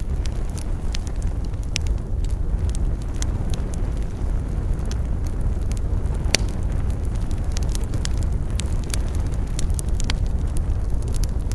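Wood fire burning with a steady low rush of flame and frequent sharp crackles and pops; one pop stands out about six seconds in.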